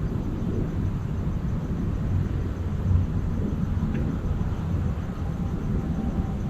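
Steady low rumble of outdoor ambience, with a faint short chirp about four seconds in.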